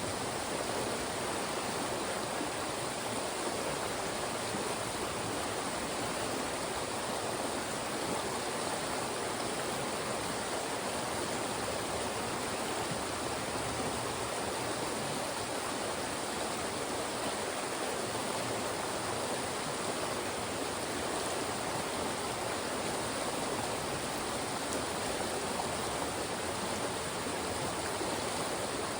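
Fast-moving stream rushing over and between rocks: a steady, even rush of water.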